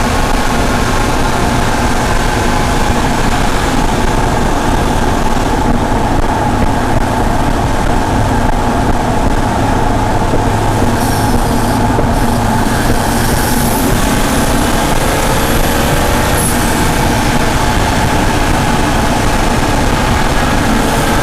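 BMW M235i's turbocharged straight-six exhaust, picked up by an external microphone while the car drives at a steady pace, mixed with heavy road and wind noise. There are no big revs; the engine note shifts only slightly in the second half.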